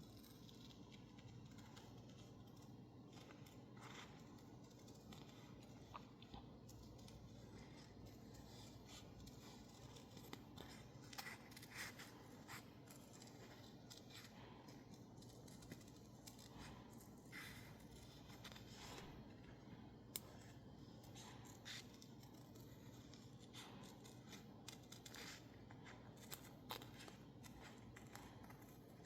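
Scissors snipping through sticker label paper in short cuts at irregular intervals, faint, with a few louder snips near the middle.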